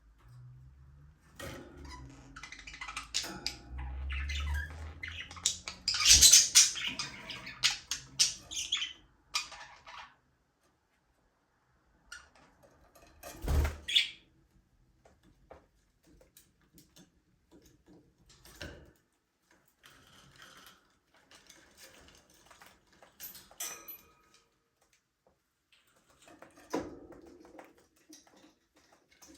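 Budgerigars chirping and chattering in irregular bursts, busiest and loudest in the first third, then thinning to scattered calls. A sharp knock sounds about halfway through.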